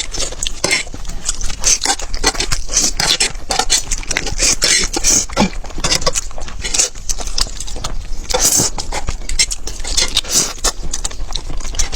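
Birds pecking and crunching at food: a dense run of irregular clicks and scraping strokes.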